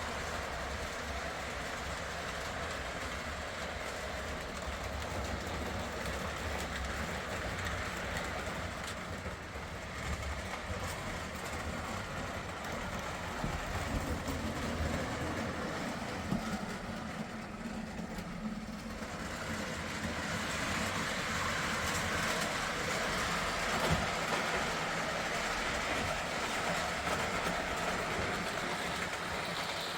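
O gauge model train running on three-rail track, its wheels clicking over the rail joints as it goes.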